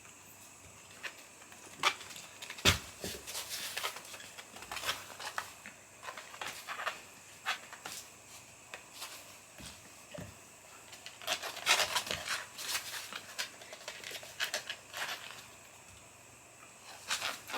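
A kitten playing on the floor: scattered light taps, scrabbles and knocks of its paws and claws, coming thickest for a couple of seconds about eleven seconds in.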